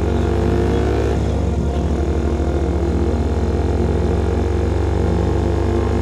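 Single-cylinder engine of a CFMOTO Papio SS mini motorcycle running through a KO Lightning slip-on exhaust while riding at a fairly steady speed, a loud, steady low drone that shifts only slightly in pitch.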